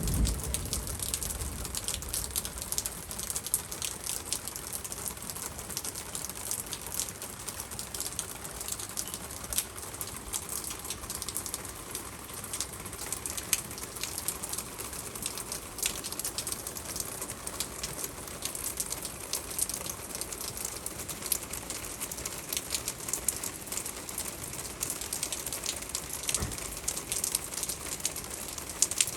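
Rain falling steadily, with many sharp ticks of drops striking hard surfaces.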